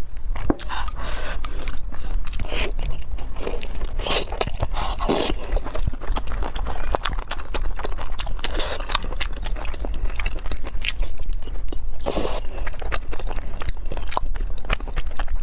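Close-miked eating of pan-fried dumplings: chewing and biting, with many short, sharp clicks and small crunches.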